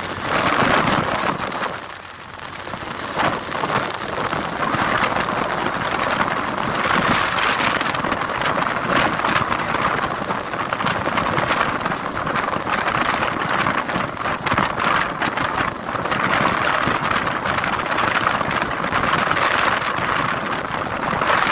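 Passenger train running, heard from an open coach door: a steady rush of wheels on the rails mixed with wind buffeting the microphone, dipping briefly about two seconds in.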